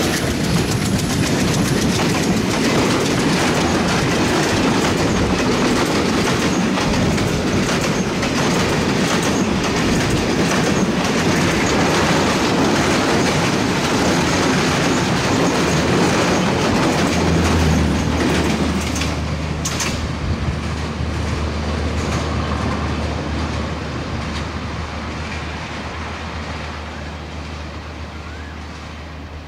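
Broad-gauge passenger coaches running past close by at speed, with a loud rush of wheels and clickety-clack on the rails, partly over a steel truss bridge. About 18 seconds in the rush drops away, leaving a steady low hum that fades as the train draws off.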